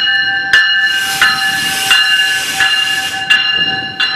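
GO Transit commuter train at the platform: a steady high whine with a loud hiss of air for about two seconds, and sharp clicks roughly every two-thirds of a second as the cars go by.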